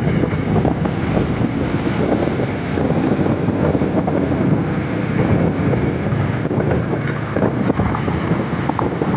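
Wind rushing over the microphone of a motorcycle riding at road speed, a loud, steady rumble of wind noise with the bike's running underneath.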